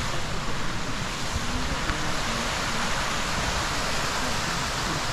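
Steady rushing of a mountain river's flowing water, with faint voices in the distance.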